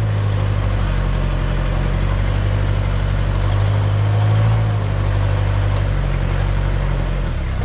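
Toyota Hilux turbo diesel engine running at low revs while crawling. The revs rise a little about four seconds in and then settle again.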